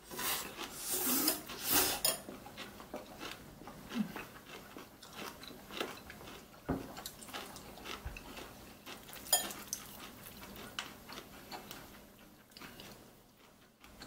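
A person chewing and biting mouthfuls of bibimmyeon, spicy mixed noodles, with scattered clicks of metal chopsticks against a ceramic bowl. The loudest bursts of eating noise come in the first two seconds, then it goes on as irregular soft clicks and chews.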